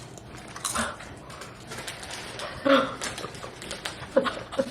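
Crisp tortilla chips crunching as they are bitten and chewed, a steady scatter of crackles, with a few short pitched vocal sounds, the loudest about two-thirds of the way in.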